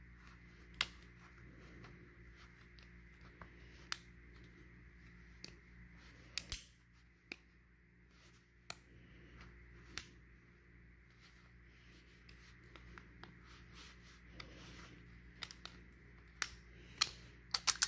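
Scattered small clicks and light rubbing as a small container is carefully opened and handled, over a faint steady hum; the clicks bunch together near the end.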